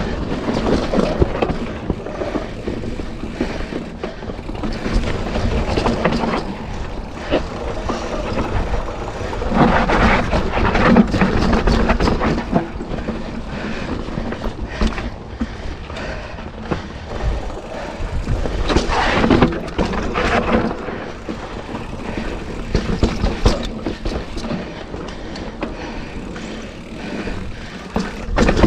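Commencal mountain bike riding down a rocky dirt trail: tyres crunching and rattling over dirt and stones, the bike clattering, with wind rushing over the camera mic. It grows louder twice, about ten and nineteen seconds in.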